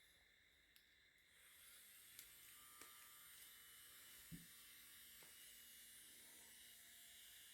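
Near silence: faint steady hiss and hum, with a few light knocks.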